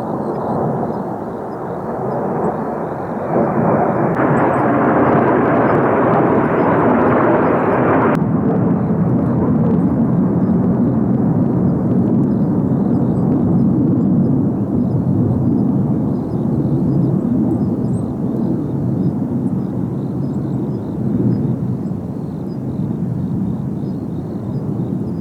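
Kawasaki T-4 jet trainers of the Blue Impulse team flying past, their turbofan engines a loud rumbling jet noise. It swells and grows brighter about three seconds in, the higher part cuts off suddenly about eight seconds in, and a deeper rumble goes on after.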